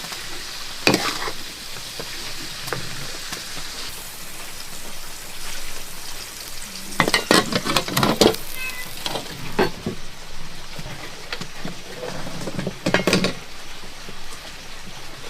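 Food sizzling steadily in a pan, stirred with a metal spatula: clusters of scrapes and clatters against the pan about a second in, in the middle and near the end.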